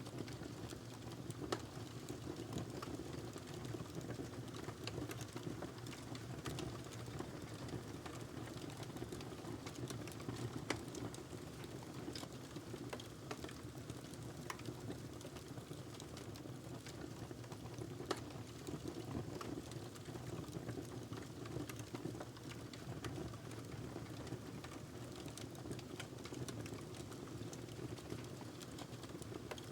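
Wood fire burning in a fireplace: a steady low rush of flame with frequent small crackles and pops from the burning logs, a few of them sharper.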